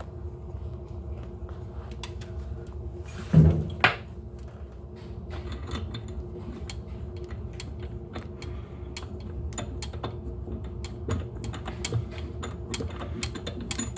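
Faucet mounting hardware being fitted and threaded on by hand: small metallic clicks and light scrapes that come thicker toward the end, with one louder knock about three and a half seconds in, over a steady low hum.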